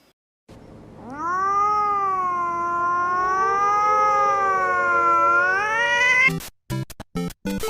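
A cat yowling in one long drawn-out call of about five seconds, its pitch wavering up and down and rising near the end. Choppy music with a beat starts just before the end.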